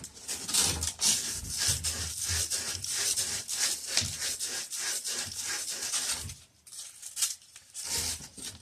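Emery cloth rubbed back and forth on copper pipe, a run of quick scraping strokes, cleaning the metal bright before it is fluxed and sweated. The strokes pause briefly about two-thirds of the way through.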